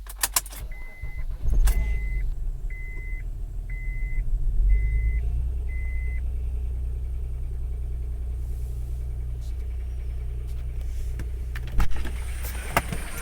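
2003 Acura MDX's 3.5-litre V6 running, swelling louder twice in the first few seconds and then settling to a steady idle. The owner is worried about a knock that the dealer thinks may be a bad wrist pin or rod bearing, with misfires on all six cylinders. A warning chime beeps six times, about once a second, over the first six seconds, and there is a sharp clack near the end.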